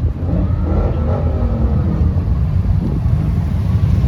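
A car engine rising and falling in pitch, a rev, over the first couple of seconds, with a steady low rumble of wind on the microphone underneath.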